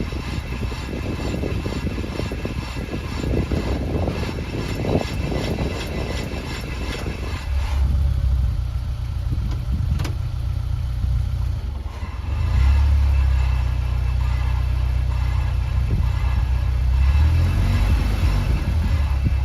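Honda S2000's F22C 2.2-litre four-cylinder engine running: held at higher revs for the first several seconds, then dropping back to a lower, steadier run, a little louder again from about twelve seconds in.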